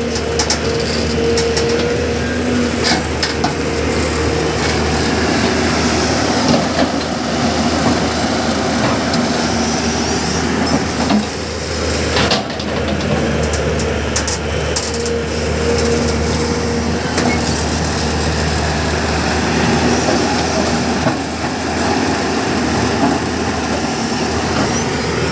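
Diesel engines of a JCB backhoe loader and a tractor running steadily during mud loading, with a pitched whine that comes and goes and scattered clanks.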